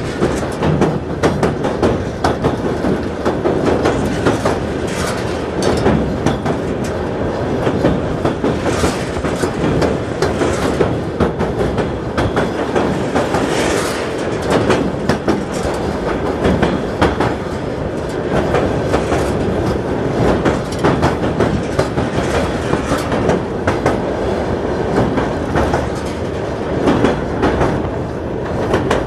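Passenger train running at speed across the Kama railway bridge, heard from inside the carriage. The wheels clatter steadily and densely over a continuous rumble.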